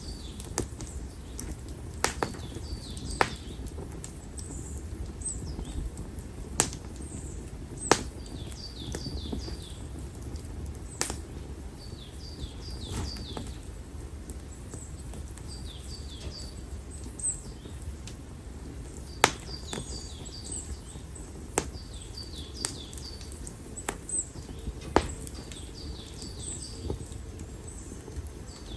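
Konara oak firewood burning in an open fire, crackling with sharp irregular pops every second or few over a steady low rumble of flames. Small birds chirp in short runs of quick falling notes in the background.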